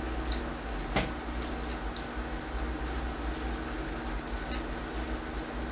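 Pork cooking on an electric grill: a faint steady sizzle over a low hum, with two light clicks in the first second.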